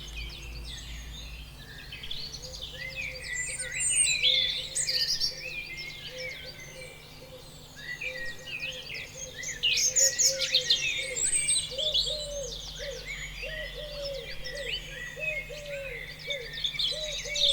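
A chorus of several birds singing, with many quick overlapping chirps and trills. From about eight seconds in, a lower, short repeated note joins in, about two a second.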